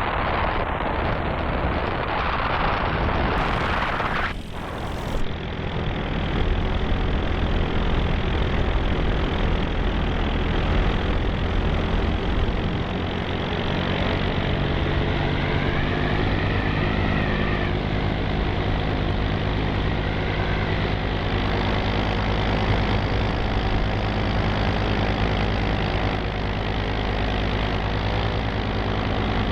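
An engine running steadily under a rush of wind noise. The rush is heavy for the first few seconds and drops away abruptly about four seconds in, leaving the even engine hum.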